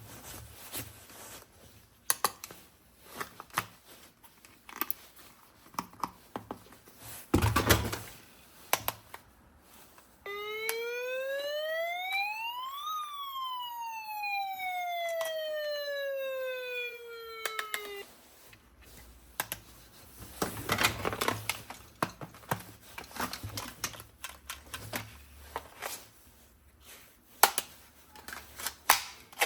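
Plastic clicks and rattles of a toy being handled, with a louder knock about seven seconds in. About ten seconds in, an electronic tone rises smoothly for about three seconds, falls back for about five seconds, then cuts off suddenly, like a toy's siren-like sound effect.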